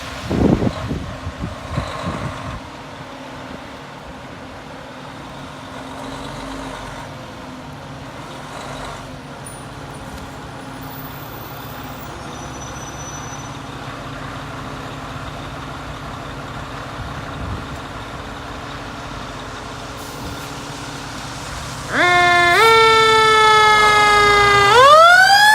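Fire engine running with a steady low engine hum. About 22 seconds in, its siren comes on loud, its pitch dropping in steps and then winding up into a rising wail near the end.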